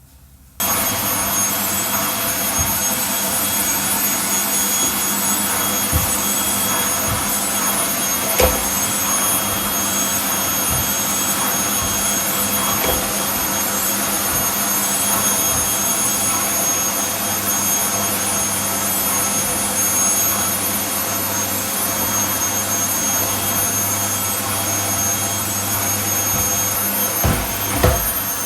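Vacuum cleaner switched on about half a second in, then running steadily with a high whine. A few short knocks come through the noise, mostly near the end.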